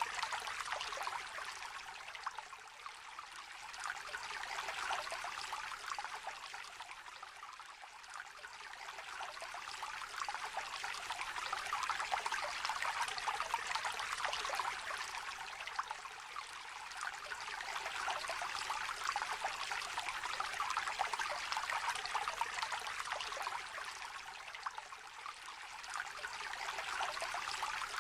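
A shallow river trickling and babbling over stones, a steady bubbling flow that swells and eases gently every several seconds.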